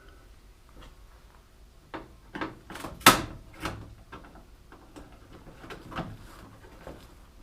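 A handful of sharp knocks and clatters from parts and tools being handled on the race car, the loudest about three seconds in.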